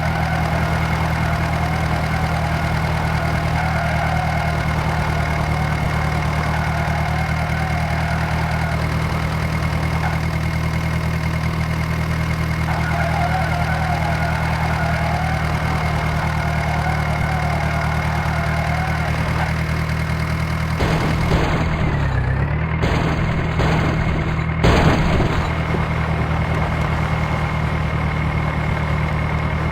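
Mahindra Arjun tractor's diesel engine running steadily while working a rotavator. About two-thirds of the way through its pitch dips briefly, as if it is loaded down, and a couple of sharp knocks follow.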